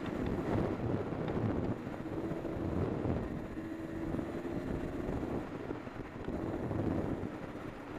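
Honda CR250R's 250 cc two-stroke single-cylinder engine running under changing throttle on a dirt trail, its sound swelling and easing several times, with wind buffeting the helmet-mounted microphone.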